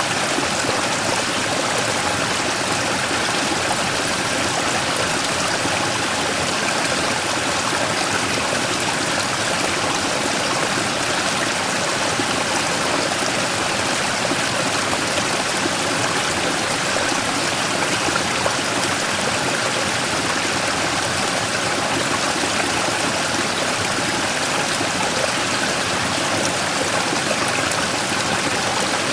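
Mountain stream flowing over and around a large rock in a small waterfall, a steady, even rush of water.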